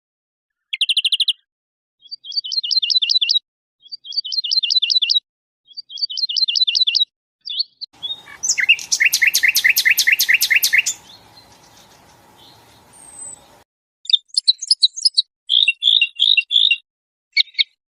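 Songbird song from a mixed recording of wild songbirds: a series of short, rapid trilled phrases, then a longer, louder trill about halfway through over a patch of background hiss, followed by quicker, varied chirping notes.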